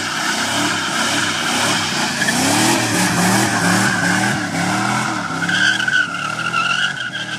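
A car engine revving up and down, its pitch rising and falling every second or so, over a steady high squeal like tires skidding.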